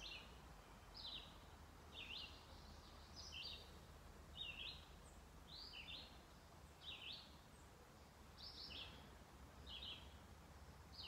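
Faint wild bird calling over and over, short high slurred notes about once a second, some in quick pairs, over a faint steady low outdoor rumble.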